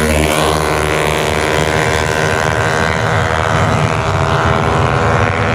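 Tuned 155cc automatic-scooter drag-race engine running loudly, its pitch holding fairly steady.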